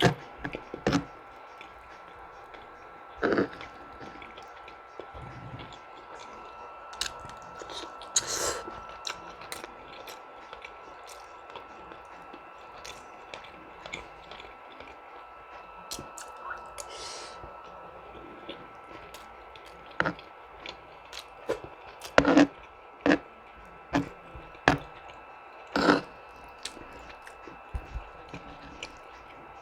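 Close-miked eating: chewing and mouth sounds, with scattered sharp clicks and crackles at irregular intervals, several in quick succession in the second half.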